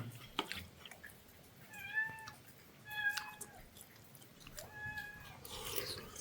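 Domestic cat meowing three times, short calls spaced a second or two apart.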